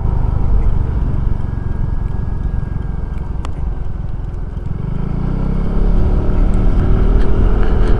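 Suzuki Address 110 scooter engine running under wind rumble, then accelerating in the second half with its pitch rising steadily.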